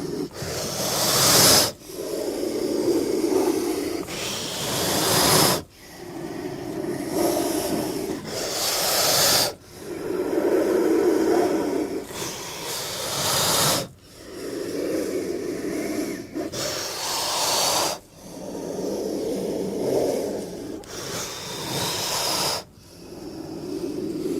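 King cobra hissing in a repeating cycle about every four seconds: a low, breathy hiss, then a sharper, higher hiss that swells and cuts off suddenly.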